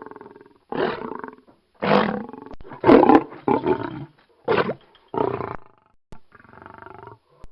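Lion roaring in a series of short, rough roars, about seven in all, the last one fainter.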